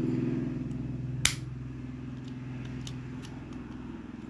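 A single sharp click about a second in, with a few faint ticks, over a steady low motor hum that slowly fades.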